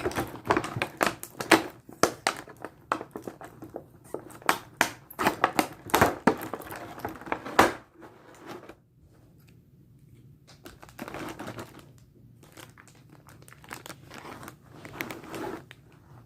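Plastic packaging of a boxed figure being crinkled and handled during unwrapping: dense sharp crackles for about eight seconds, then quieter, with two short spells of rustling later on.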